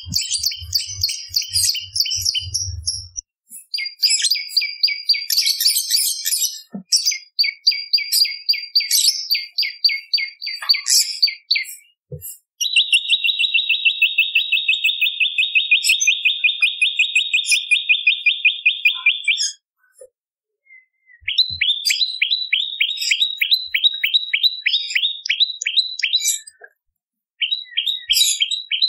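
Prenjak lumut songbird calling in fast, dry trills of many short chirps, each run lasting several seconds with short pauses between. One run is a long steady trill, and a later one is made of quick downward-sliding notes. A low buzz sits under the first few seconds.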